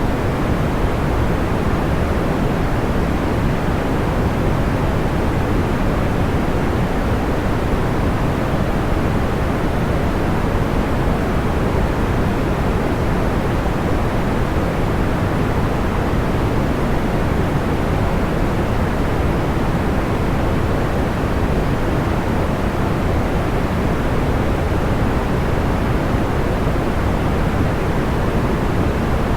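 Steady, even sleep-aid noise with a deep, soft rushing quality, like pink noise. It does not change and has no breaks or distinct crackles.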